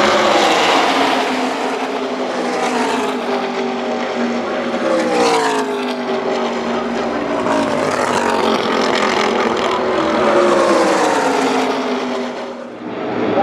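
A pack of NASCAR race vehicles passing at full speed on the superspeedway, their V8 engines sounding as a dense wall of engine noise. Several waves go by, and the engine notes drop in pitch as each group passes.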